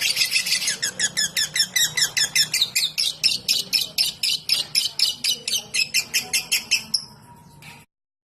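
Lovebird giving its fast ticking chatter ('ngetik'): a rapid run of sharp high chirps, dense at first, then about four or five a second, fading and cutting off near the end.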